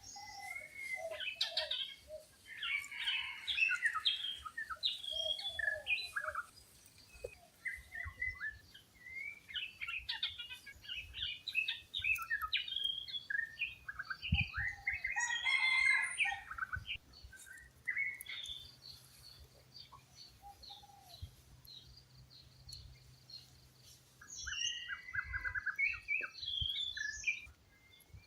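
Several wild birds chirping and calling together in a busy mix of short, quick notes, thinning out for a few seconds past the middle before another burst of calls near the end.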